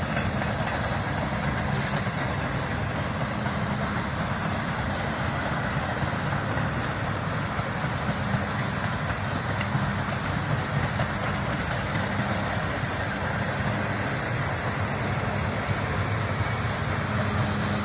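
Freight train passing on the rails: a steady rumble of the cars rolling by. A low hum grows stronger near the end.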